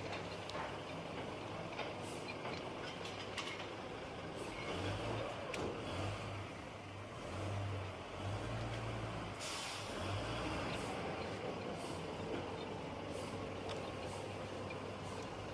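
Heavy diesel engine of a truck or machine running steadily under load, with scattered knocks and a short burst of air hiss about two-thirds of the way through.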